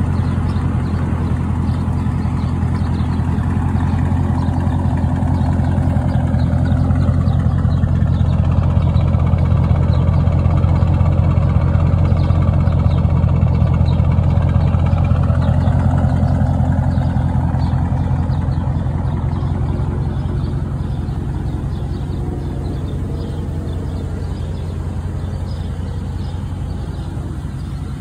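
Dodge Charger Scat Pack's 6.4-litre HEMI V8 idling steadily, a deep, even exhaust note that holds the same pitch throughout and eases slightly in level in the second half.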